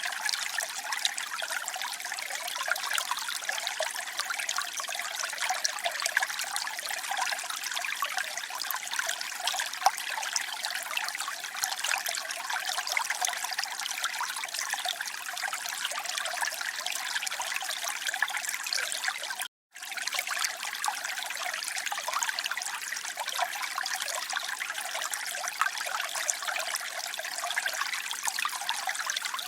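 Water trickling and flowing steadily, an even splashing hiss with no low rumble. It cuts out completely for a moment about two-thirds of the way through, then resumes unchanged.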